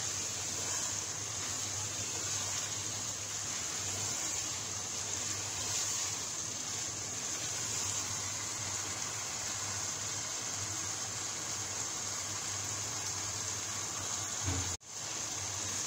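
Beef and cabbage curry sizzling steadily in oil in the pot as it is stirred with a spatula, over a low steady hum. The sound cuts out for a moment near the end.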